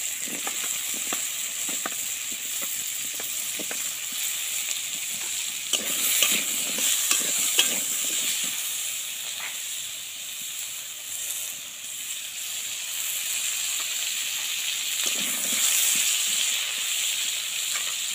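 Cubed potatoes and pumpkin frying in hot mustard oil in a kadai, with a steady sizzle. A metal spatula clinks and scrapes a few times, mostly about six to eight seconds in.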